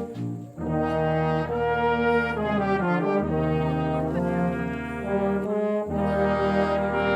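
Wind orchestra playing a piece in sustained chords, coming back in after a brief break about half a second in.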